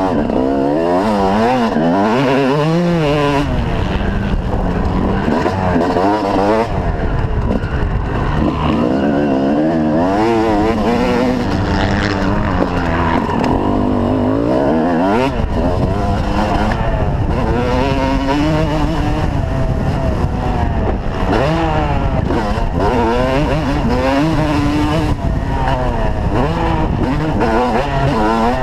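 Motocross bikes' engines revving up and down over and over as they accelerate and shift through the gears, with more than one bike heard at once.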